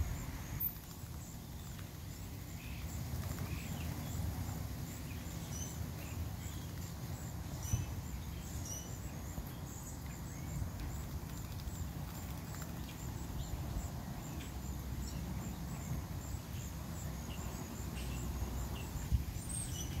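Outdoor yard sound: birds chirping, with a steady run of short high chirps throughout and a low rumble underneath.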